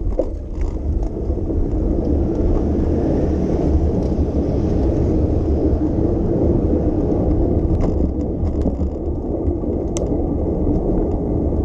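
Steady rumble of a bicycle riding along, wind on the microphone mixed with tyre noise on the road, with a few light clicks and one sharper click about ten seconds in.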